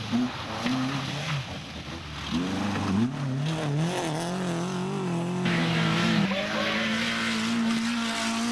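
Rally car engine revving hard, its pitch swinging up and down with throttle and gear changes, then held at a steady high note, with tyres skidding on the stage.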